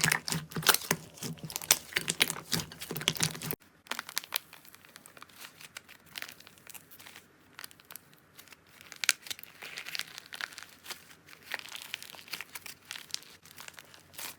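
Slime being squeezed and poked, with dense crackling and popping clicks. A little over three seconds in it cuts to a quieter clip with scattered small pops and crinkles.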